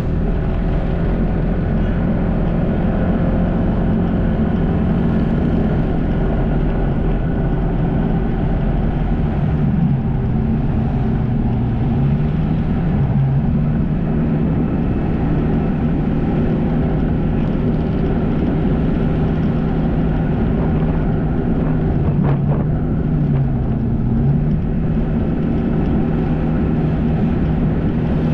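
Jet ski engine running steadily under way, its hum dipping in pitch briefly a few times as the throttle eases and picks up again.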